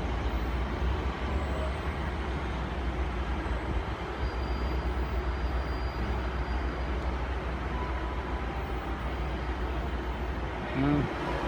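Diesel train engines idling at a station platform, a steady low rumble. A short louder sound comes near the end.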